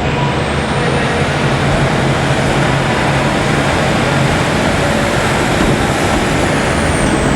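Pair of Class 156 Super Sprinter diesel multiple units departing, their underfloor Cummins diesel engines running loud and steady under power. A thin high whine runs above the engine note and drops in pitch near the end.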